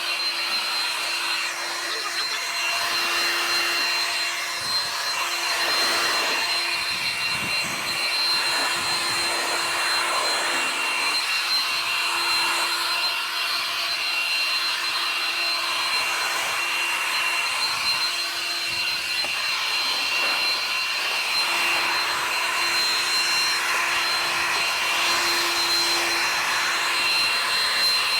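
A small electric motor running steadily, a constant whine over a rushing, airy noise.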